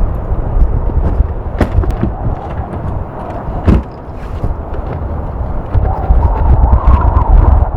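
Strong gusty wind buffeting the microphone in a gale, a deep uneven rumble that swells and eases, with a few sharp knocks and a faint wavering howl near the end.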